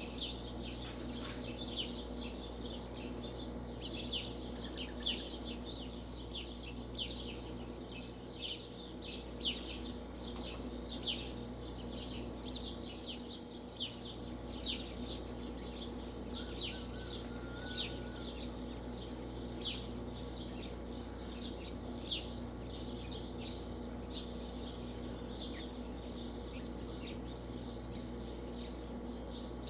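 Quail calling with many short, high chirps, several every few seconds throughout, over a steady low hum.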